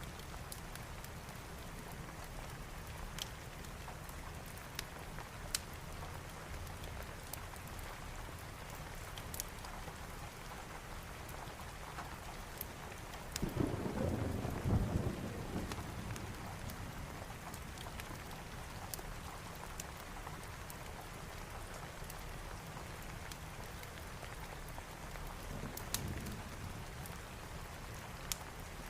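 Steady rain with scattered sharp crackles. A roll of thunder comes about halfway through and lasts a couple of seconds, and a fainter rumble follows near the end.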